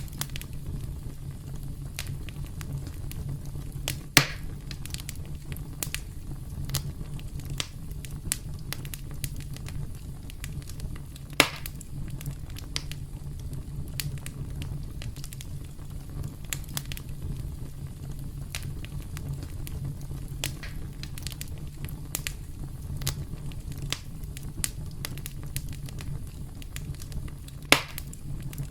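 Campfire crackling: a steady low rumble of burning wood under frequent small crackles, with three sharper, louder pops spread through, the last near the end.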